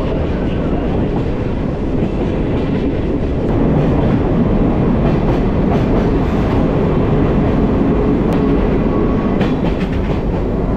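Open-air sightseeing train car under way, its wheels rumbling and clattering on the rails, heard from inside the windowless car. The rumble grows louder about three and a half seconds in.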